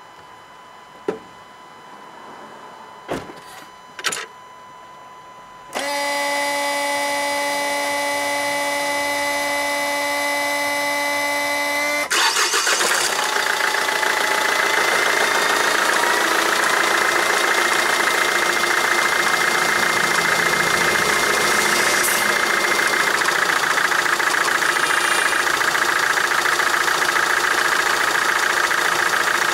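A few clicks, then an Opel Astra J's starter motor cranks the engine with a steady whine for about six seconds. The engine catches about twelve seconds in and settles into a steady idle. During the cranking the battery sags to about 10 V.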